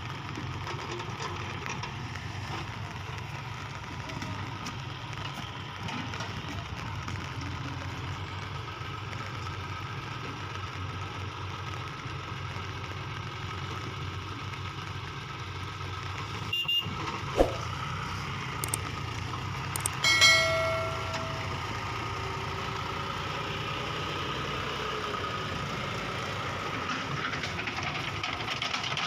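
Heavy diesel engine running steadily. A couple of sharp knocks come about seventeen seconds in, then a short horn toot about twenty seconds in.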